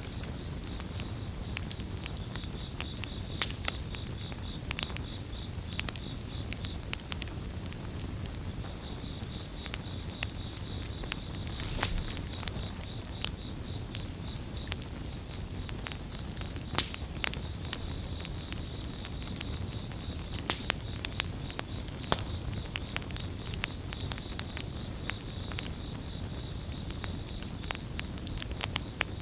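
Campfire crackling, with sharp pops scattered all through over a low steady rumble of the burning wood. A cricket trills at a high pitch in long stretches, with short breaks about seven seconds in, around fifteen seconds in and near the end.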